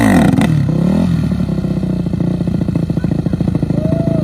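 Dirt bike engine coming down off a rev over the first second, then running at a steady speed.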